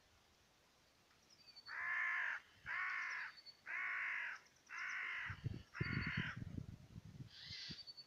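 A large bird gives five harsh caws in a row, about one a second, with faint high chirps of small birds behind them. A low rumble comes in during the last calls.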